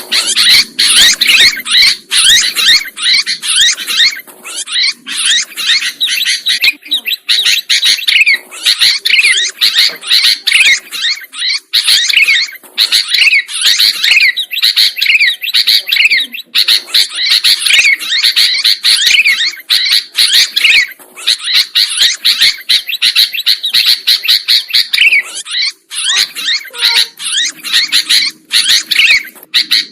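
Sooty-headed bulbul (kutilang) singing loudly and continuously, a busy stream of quick chirping and chattering phrases with only brief pauses.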